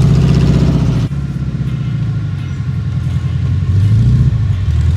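Classic car engine running close by with a low, steady note. The level drops abruptly about a second in, then swells again near the end.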